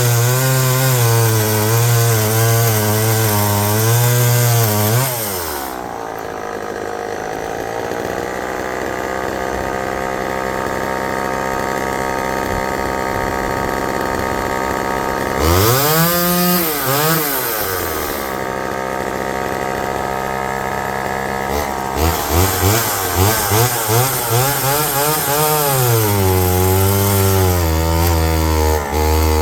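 Homelite EZ two-stroke chainsaw cutting wood at high revs, its speed wavering as the full-chisel chain bites hard. About five seconds in it drops to a steady idle, revs up and down once in the middle, then is blipped several times and goes back to cutting at high speed near the end.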